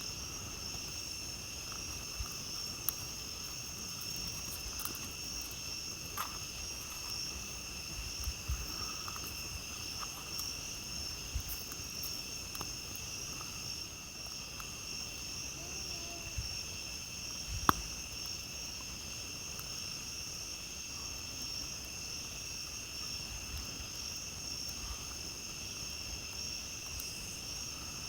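A steady chorus of night insects at two high, even pitches, with scattered crackles and pops from a campfire. There is one sharper, louder pop a little past halfway.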